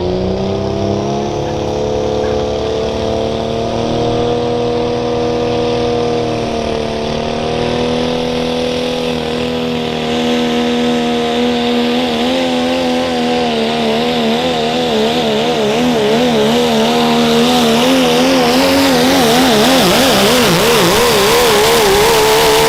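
Ford diesel pickup's engine held at full throttle through a sled pull, rising as it launches and then running at high revs. Its pitch begins to waver rapidly about halfway through as the load bites, the sound grows a little louder, and the revs drop sharply at the very end as the driver lifts off.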